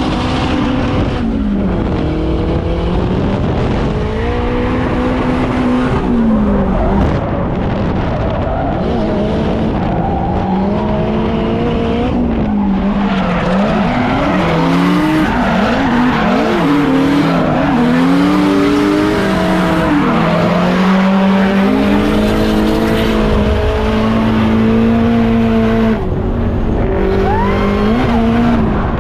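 Turbocharged drift car engine revving up and down over and over as the throttle is worked through slides, with tyres squealing and skidding.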